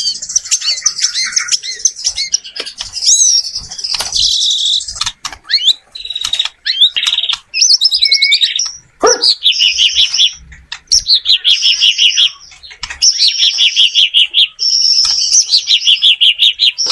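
White-rumped shama singing a long, varied song of fast repeated trilled notes and whistled slurs, with only brief pauses between phrases.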